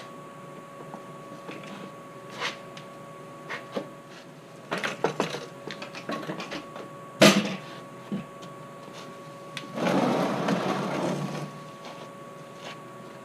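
Scattered clicks and knocks of tools and parts being handled, with one sharp knock about seven seconds in and a rustling, rushing noise lasting under two seconds near the end. A faint steady hum runs underneath.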